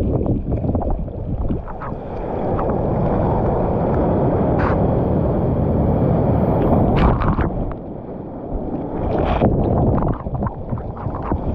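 Seawater surging and churning around the microphone in the surf: a dense, low rushing noise that swells, eases about two-thirds of the way through and surges again, with scattered splashes.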